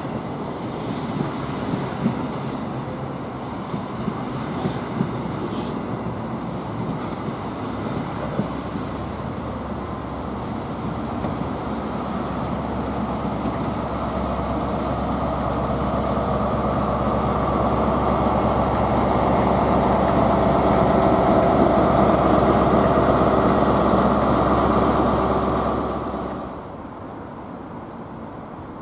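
Train on the line: wheels clicking over rail joints in the first few seconds, then a rumble that builds for about fifteen seconds, with a faint high whine near its loudest, and drops away sharply near the end.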